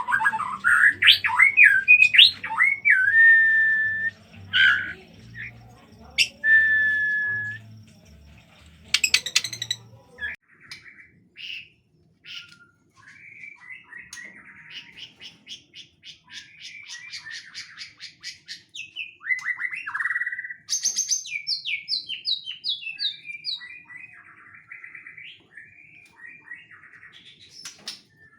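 White-rumped shama (murai batu) singing: loud whistled glides and held notes at first, then a long, varied run of fast trills, rapid chattering notes and short falling whistles.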